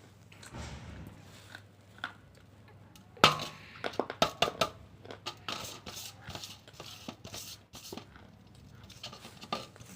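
Spoon clinking against a dish during feeding: one sharp clink about three seconds in, then a quick run of clinks and lighter taps.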